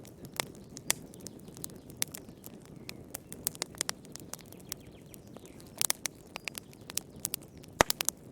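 Wood fire crackling in a fireplace: irregular sharp pops and snaps over a low steady rumble of the flames, with a cluster of pops about six seconds in and the loudest snap near the end.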